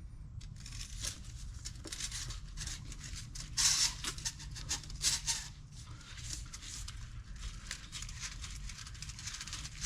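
Irregular scraping, rustling and light clicking of hand tools and small metal parts being handled during air-line tubing work, loudest about four seconds in, over a steady low hum.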